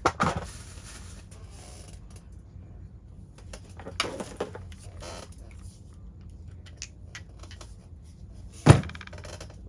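Metal hand tools handled on a workbench: a few light clinks and knocks, then one louder sharp clunk near the end.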